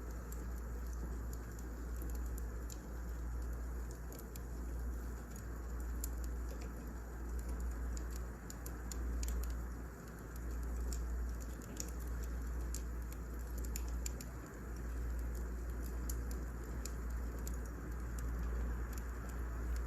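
Wood fire burning, with irregular small crackles and pops scattered over a steady low rumble.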